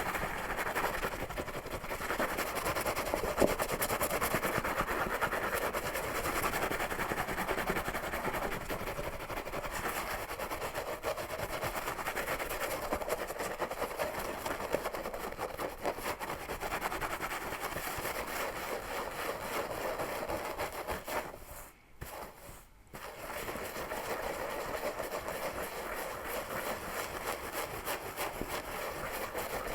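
Fingers scratching a scalp and pulling through hair, close to the microphone: a dense, continuous crackling rustle that breaks off briefly about two-thirds of the way through.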